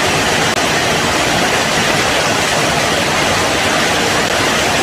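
Heavy rain pouring down as a loud, steady, dense hiss.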